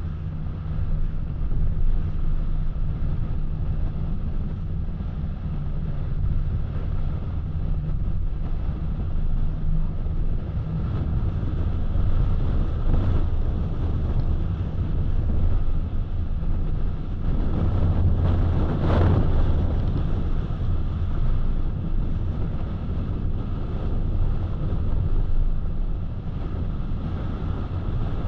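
Road noise of a car driving: a steady low rumble of tyres and engine with a hiss of wind, swelling briefly into a louder whoosh about two-thirds of the way through.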